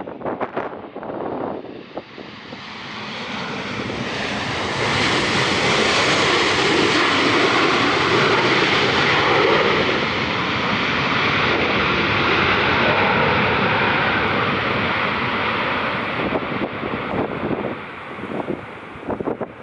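An airliner passing close by, its engine noise swelling over a few seconds, holding loud, then fading away. Strong wind buffets the microphone at the start and again near the end.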